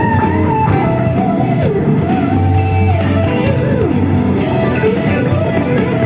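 Rock music with no singing: a guitar plays a sliding, bending lead melody over a full band with a steady low bass.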